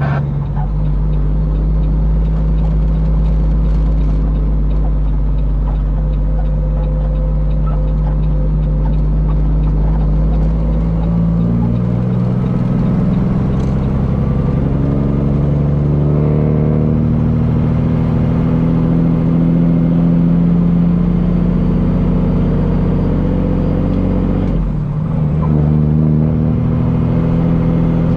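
Peterbilt semi truck's diesel engine pulling away. It holds a steady low note at first, then climbs in pitch about halfway through. Near the end the note drops briefly, as with a gear change, and then pulls up again.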